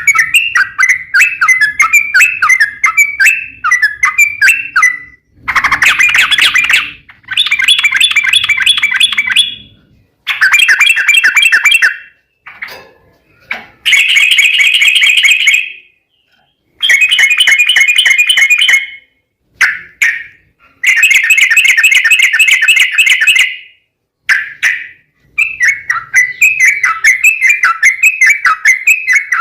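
Yellow-vented bulbul (trucukan) singing its long, fast chattering song, rapid notes around the same pitch. The song comes in bursts of a couple of seconds with abrupt short breaks between them.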